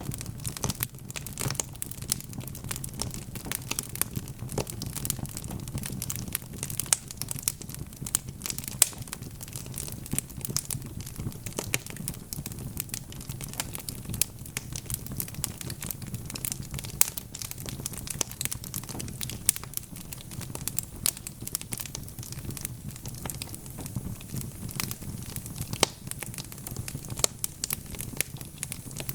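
Wood fire burning with dense, irregular crackling and popping over a low steady rumble of the flames.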